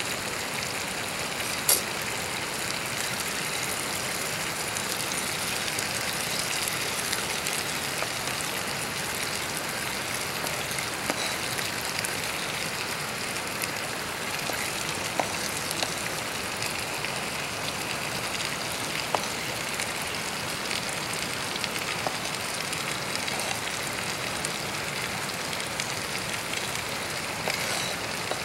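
Steak and chopped onions sizzling in hot oil in a skillet on a small canister gas stove, a steady hiss with a few sharp pops scattered through it.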